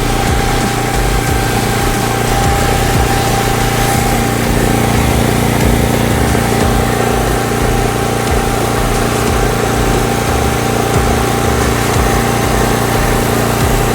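Wing mower's small engine running steadily at constant speed, with a steady whine over the engine hum.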